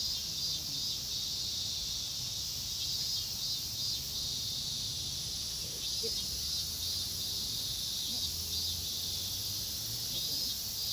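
Steady, high-pitched chorus of insects buzzing and trilling, with a low rumble underneath.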